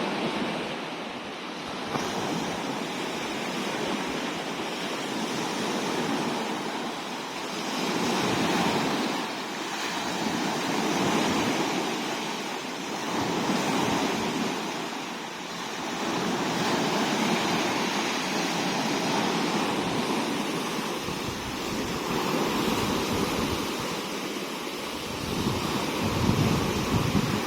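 Sea waves breaking and washing on a shore, the surf swelling and easing every few seconds. Wind rumbles on the microphone near the end.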